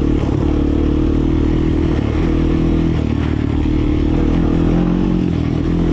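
Four-wheeler (ATV) engine running steadily under load while riding a rough trail, with a few short knocks and rattles.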